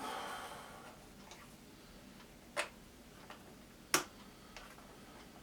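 A small flat-tip screwdriver working a slotted screw in a plastic boombox cabinet: a short rasp at the start, then scattered light clicks and taps of metal on the screw and case, two of them sharper than the rest.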